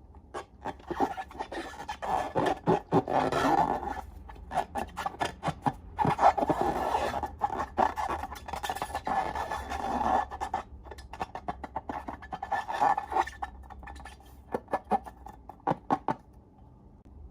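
Slime being worked by hand close to the microphone: runs of sticky clicks and crackling scrapes in bursts, stopping about a second before the end.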